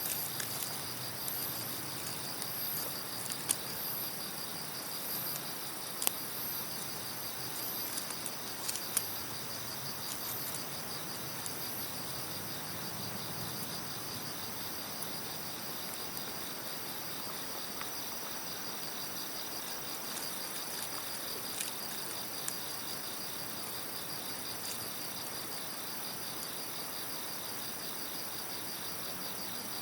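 Crickets chirring in a steady, finely pulsed high trill, with a second, higher insect call pulsing in the first ten seconds. A wood campfire gives a few sharp pops in the first ten seconds.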